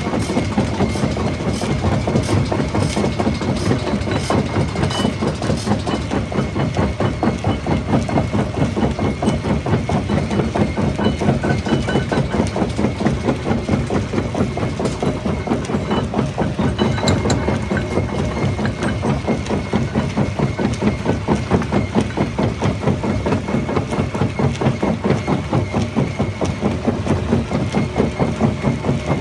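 Jaw crusher running, a steady fast pulsing rumble from the crushing jaw with a faint high whine, and occasional sharp cracks of stone breaking.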